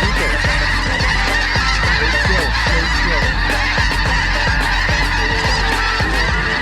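A large flock of snow geese calling overhead: a dense chorus of many overlapping high honks over a steady low rumble. It cuts off abruptly near the end.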